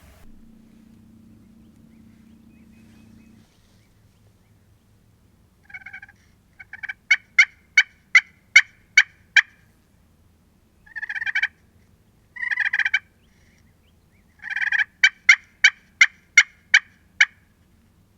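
Turkey yelping, loud and close: a run of sharp yelps about three a second, then two longer drawn-out notes, then another run of yelps.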